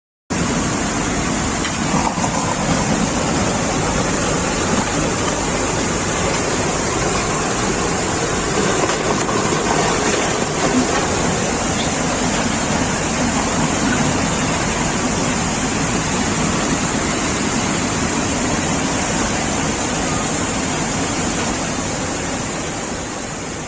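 Steady rush of fast-flowing floodwater, even and unbroken, fading out near the end.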